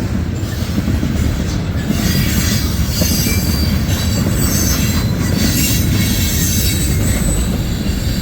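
Freight train cars, tank cars among them, rolling past close by: a steady loud rumble of steel wheels on rail, with thin high-pitched wheel squeal joining in about two seconds in.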